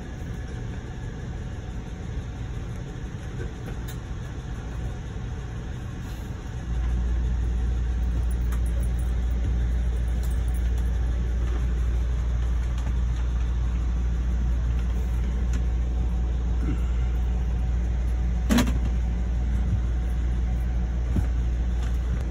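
Steady low rumble and hum inside an Amtrak passenger train car. About seven seconds in, the low rumble abruptly gets louder and stays that way, and a single sharp click comes near the end.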